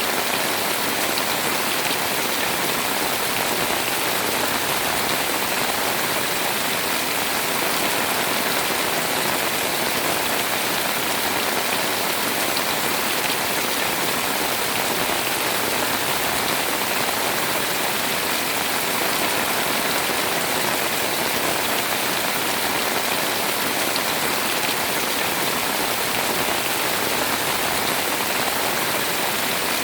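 Pouring rain falling steadily: an even, dense hiss with no pauses or separate louder drops.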